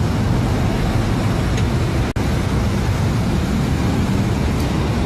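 Steady rumble of a car driving: engine and road noise. The sound drops out for a split second about two seconds in.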